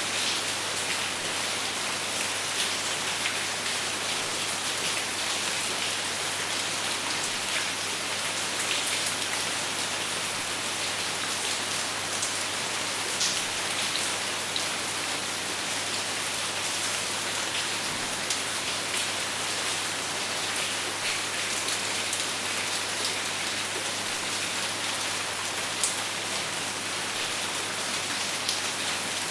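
Steady rain falling on a surface, an even hiss with scattered sharper drop ticks and no thunder.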